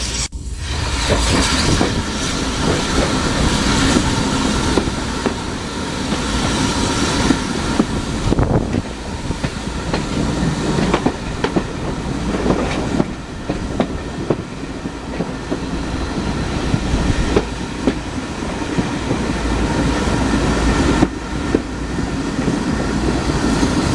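Passenger train running along the track, a steady rumble with the wheels clicking over the rail joints.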